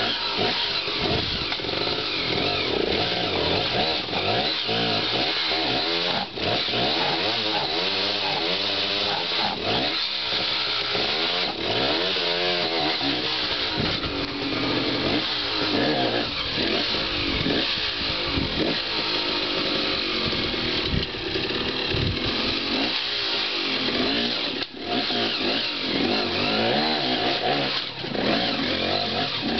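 Dirt bike engine revving up and down in short, repeated throttle bursts, the pitch rising and falling every second or two, with two brief drops in sound about six seconds in and near the end.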